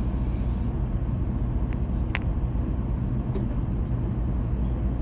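Shinkansen train running noise heard inside the passenger car: a steady low rumble, with a few brief clicks about two and three seconds in.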